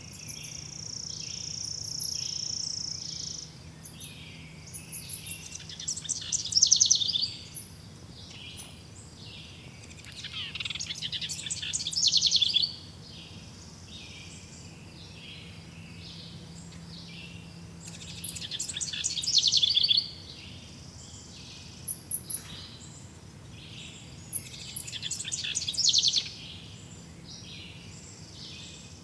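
Forest birdsong. A bird sings a loud, fast trilling phrase about two seconds long four times, over softer, evenly repeated chirps from other birds; a steady high note runs through the first three seconds.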